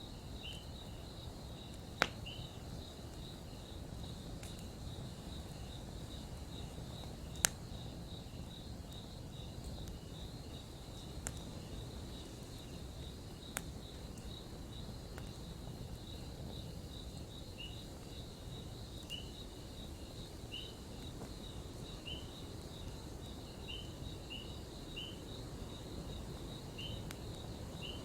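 Wood campfire crackling, with four sharp pops (the loudest about two and seven seconds in) over a steady low hiss. Crickets chirp in a steady, even rhythm behind it.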